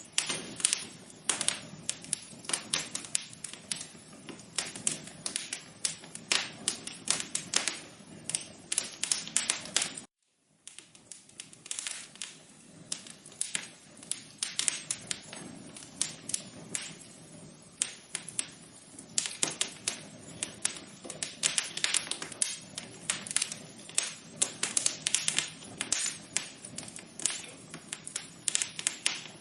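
Wood fire crackling in an outdoor fireplace: dense, irregular pops and snaps over a steady low hiss. The sound cuts out for about half a second around ten seconds in, then resumes.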